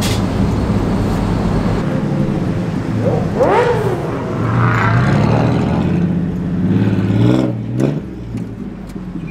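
Vehicle engine running steadily while driving slowly, heard from inside the cab. About three seconds in, an engine revs with its pitch sweeping up and back down, and there is another quick rise near the end.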